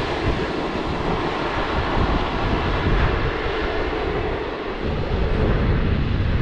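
Steady rolling roar of a container freight train running away into the distance on the rails, with an uneven low rumble of wind buffeting the microphone.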